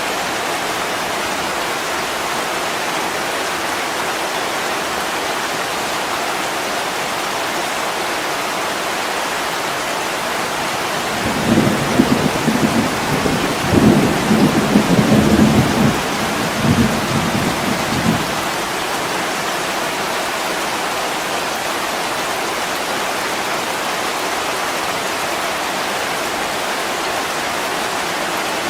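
Heavy rain falling steadily, with a rolling rumble of thunder lasting several seconds near the middle.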